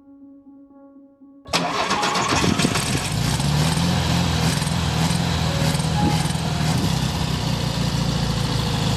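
A vehicle engine cuts in abruptly about a second and a half in, then runs steadily with a low, even drone.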